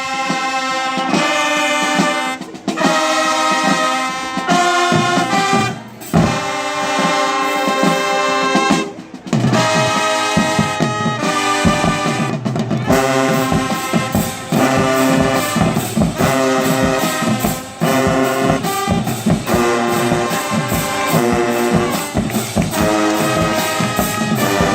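High school band with its brass section playing held chords, with short breaks between phrases. From about halfway, a steady drum beat joins in under the brass.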